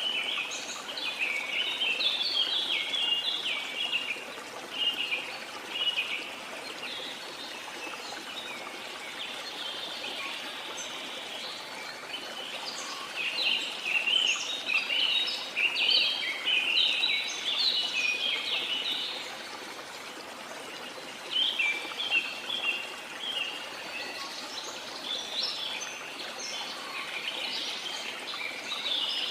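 Small birds chirping in quick, busy bouts of short high notes, over a steady wash of sea noise.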